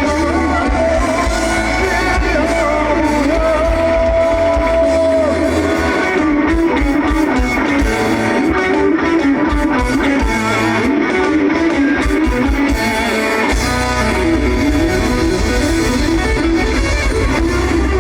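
A live pop-rock band playing, with guitars and singing. The deep bass drops out for several seconds in the middle and comes back near the end.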